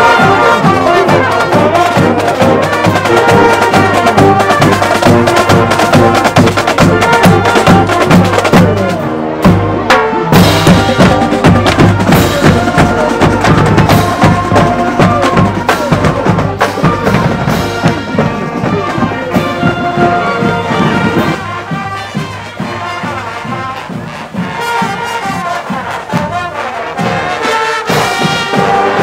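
High school marching band playing on the march: brass (trumpets, trombones) over a steady drum beat. The band drops out briefly about a third of the way in, and the playing is softer near the end.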